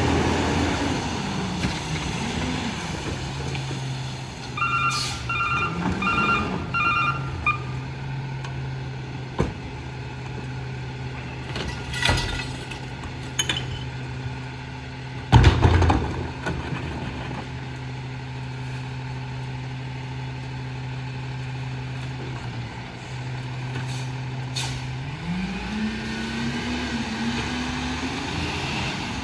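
Freightliner M2 rear-loader garbage truck's diesel engine revving. Its backup beeper sounds several times about five seconds in, and the engine then holds a steady hum with one loud bang around the middle. Near the end the engine revs up again as the truck accelerates.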